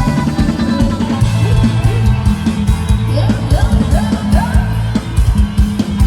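Live band playing upbeat retro ramwong dance music, with a drum kit and bass keeping a steady beat. A few short rising whoops come about three to four and a half seconds in.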